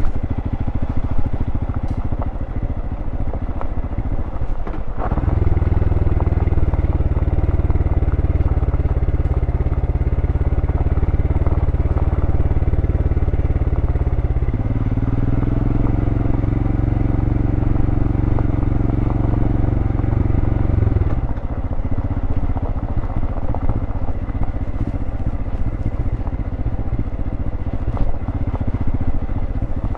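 2023 Royal Enfield Scram 411's single-cylinder engine through its stock exhaust while riding: an uneven, loose beat at first, then about five seconds in it pulls with a steady note, steps up to a higher note about halfway through, and falls back to the uneven off-throttle beat a little after twenty seconds.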